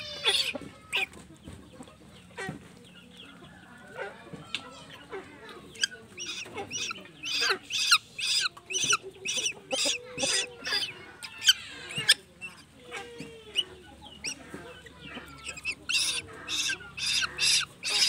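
Young tuwu bird chick giving short, harsh begging calls while being hand-fed, repeated about two to three times a second in runs through the middle and again near the end.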